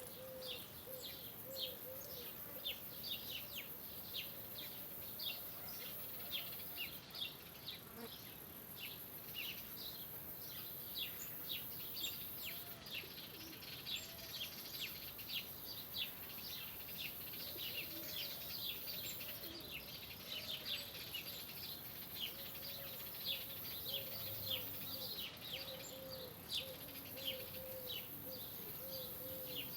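Many small birds chirping rapidly and overlapping in a dense chorus, with a low, repeated call underneath.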